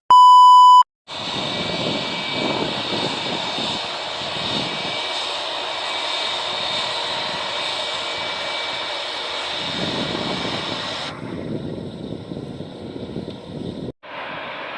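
A short, very loud electronic beep, then Boeing 757 jet engines running at high power: a steady jet rush with a high fan whine over it. The sound changes abruptly twice near the end to quieter jet noise.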